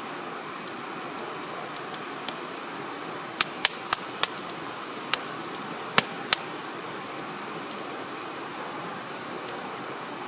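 Wood fire burning with a steady hiss, and a cluster of sharp crackling pops from the burning firewood between about three and a half and six and a half seconds in.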